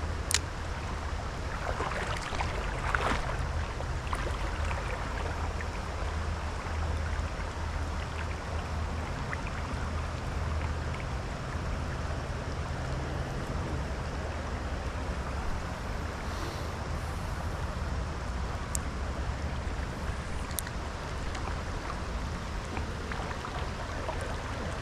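Steady rush of flowing creek water with rain falling, and a constant low rumble. A sharp click just after the start and a few fainter ones later.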